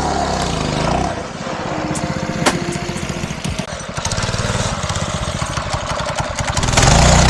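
Small single-cylinder four-stroke kart engine running steadily, its firing pulses rapid and even. Music comes in loudly near the end.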